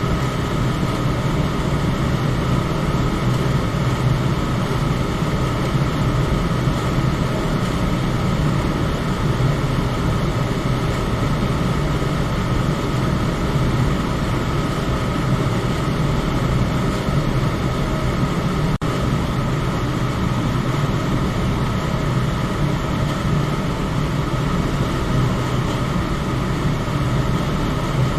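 Electric fan running steadily: an even whooshing drone, heaviest in the low range, with a faint steady motor hum.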